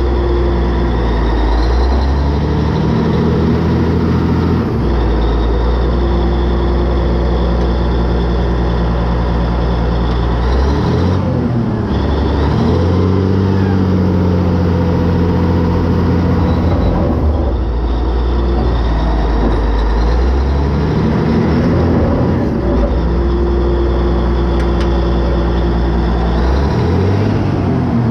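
Caterpillar D8N dozer's diesel engine running, its note dropping and rising in repeated spells every five or six seconds as it is put under load, with a faint whine gliding above it. The dozer strains in forward gear without moving properly, which the owner thinks could be a simple hydraulic problem.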